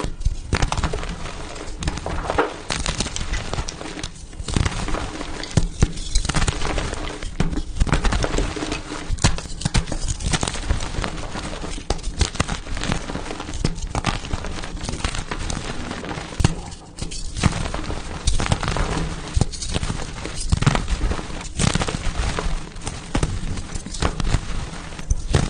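Blocks of pasted gym chalk being crushed by hand, a dense run of crunching and crackling with many sharp cracks and a few brief pauses.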